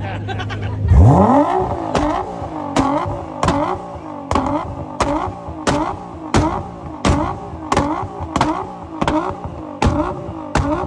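Lamborghini engine revved hard about a second in, the pitch sweeping up. It is then blipped repeatedly in a steady rhythm, a sharp exhaust crack about every 0.7 seconds.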